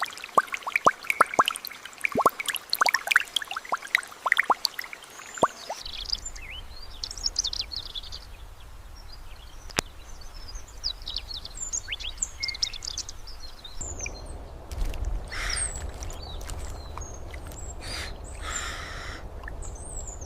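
Forest ambience. For the first few seconds there is a quick run of sharp drip-like ticks. Then small birds chirp over a low hum, and from about two-thirds of the way through come several longer, harsh bird calls.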